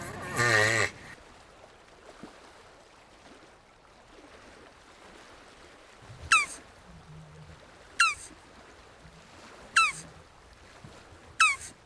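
A jabuti tortoise giving a short, wavering groan in the first second. From about six seconds in, four quick, high whistles sweep sharply downward, evenly spaced about a second and a half apart.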